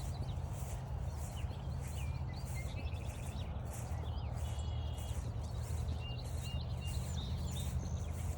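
Footsteps on a trail in a steady walking rhythm, about two a second, with several songbirds chirping and whistling through it.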